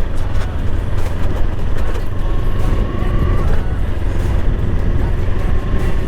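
Motorcycle riding noise: engine running under a steady low rumble of wind on the helmet-mounted microphone, on a rough stretch of road.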